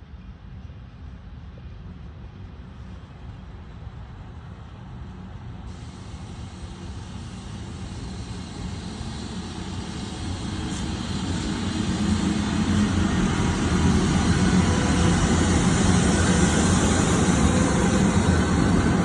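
2ES6 electric freight locomotive running light on the approach. Its running noise grows steadily louder over about the first fourteen seconds, then stays loud as it draws close.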